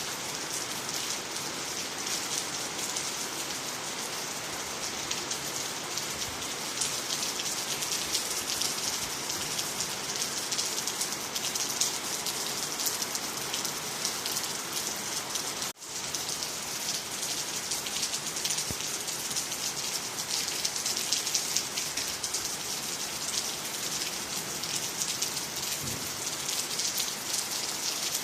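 Steady rain falling on ground, trees and water: an even, continuous hiss of drops. There is a momentary dropout a little past halfway.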